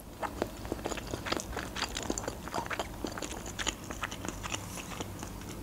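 A person chewing a mouthful of food with the mouth closed, close to the microphone: many small, irregular mouth clicks and smacks.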